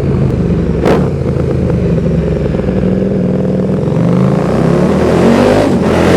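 KTM 1290 Super Duke R V-twin running through a de-catted link pipe and slip-on silencer, very loud, with a sharp crack about a second in. The engine note climbs as it accelerates in the second half.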